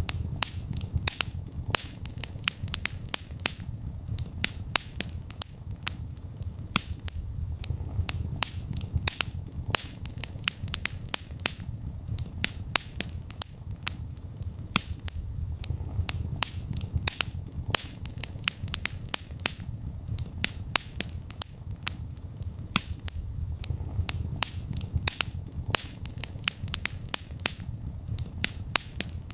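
Wood fire burning in a fireplace, crackling with frequent sharp pops at irregular intervals over a low rumble of flames that swells and fades every several seconds.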